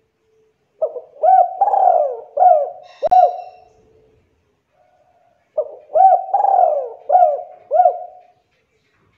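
Spotted dove (tekukur) cooing: two song phrases of about five notes each, a few seconds apart.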